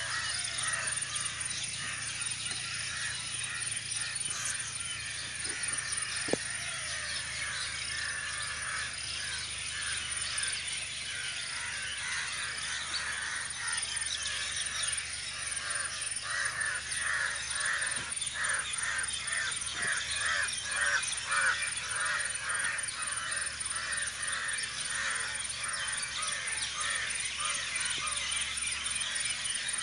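A chorus of birds calling, with crows cawing among them, and a fast run of evenly repeated calls through the middle.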